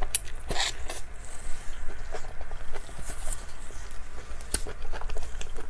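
Close-miked eating sounds of a giant cream-filled mochi (xuemeiniang): wet, squishy chewing and lip smacks, with scattered short clicks.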